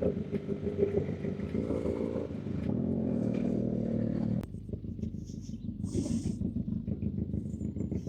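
Motorcycle engines running at idle, with the pitch shifting a few times. A sharp click comes about four and a half seconds in, after which a rapid, even engine pulsing stands out.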